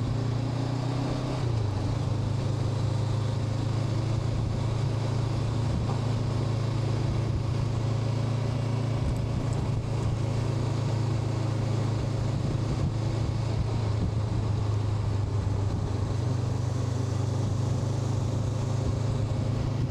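Honda NX500's parallel-twin engine running steadily while riding at cruising speed, a constant low drone whose note shifts slightly about a second and a half in.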